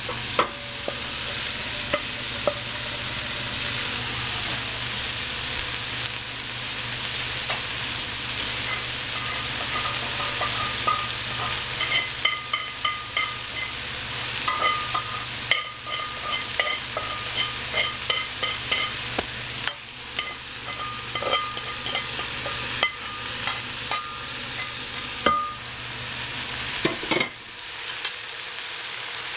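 Rice with hedgehog mushrooms and greens sizzling as it is stir-fried in a pan. The utensil clicks and scrapes against the pan throughout, with a high squeaky scrape in stretches through the middle.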